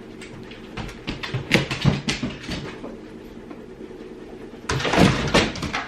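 A dog's claws tapping and scrabbling on hard surfaces, then a louder thump and scrape nearly five seconds in as it jumps up onto a raised object.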